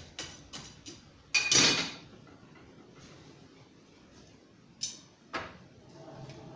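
Steel work and tongs clinking at a coal forge as the work is set into the fire: a few light clicks, a louder scraping metal clank about a second and a half in, then two more clicks near the end.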